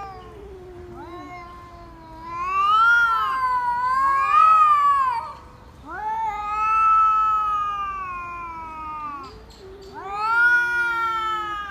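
Cat caterwauling: three long, drawn-out yowls that waver up and down in pitch, the first lasting several seconds.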